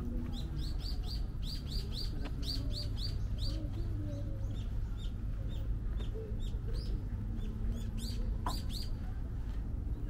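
Small birds chirping: short high notes repeated about two to three times a second, sometimes in quick pairs, over a steady low background rumble.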